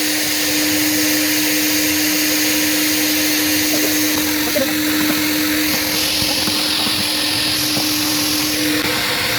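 Coin-operated car-wash vacuum running steadily: a rushing suction sound over a steady hum, the rush changing in tone about six seconds in.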